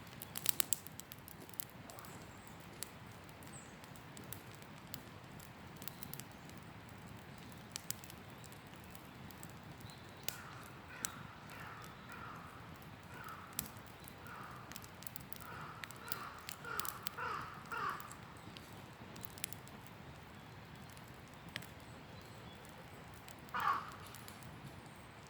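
Wood campfire crackling with scattered sharp pops over a low hiss. Through the middle, a bird gives a run of short repeated calls, and one louder call comes near the end.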